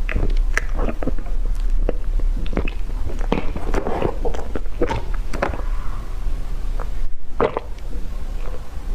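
Irregular close-miked clicks, crackles and soft crunches over a steady low hum.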